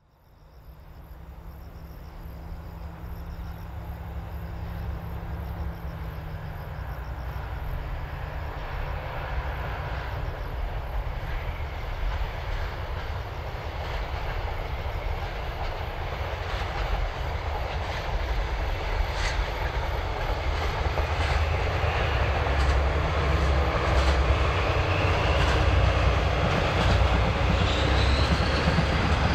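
DD51 diesel-hydraulic locomotive hauling a freight train, its engines steadily growing louder as it approaches. Sharp clicks come in from about halfway, and a rising whine sounds near the end.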